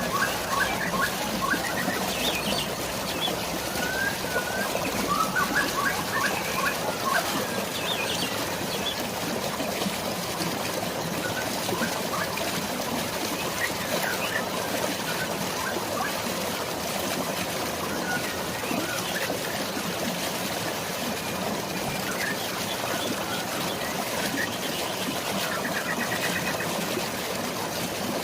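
Steady rushing of flowing water, with birds chirping over it: short repeated chirps, busiest in the first several seconds, then only now and then, and a brief trill near the end.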